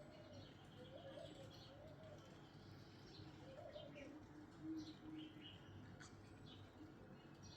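Faint birdsong: a low cooing call repeated every second or two, with short high chirps from small birds scattered through it.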